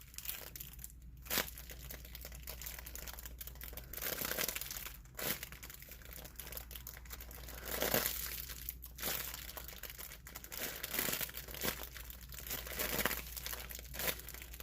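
Plastic packaging crinkling and rustling in the hands as a foam squishy is worked out of its bag, with irregular crackles and a few sharper snaps.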